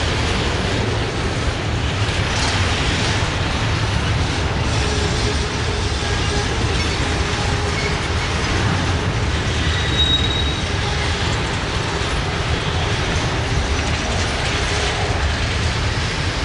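Freight train cars rolling past on the rails: a steady rumble of steel wheels on track, with a short high wheel squeal about ten seconds in.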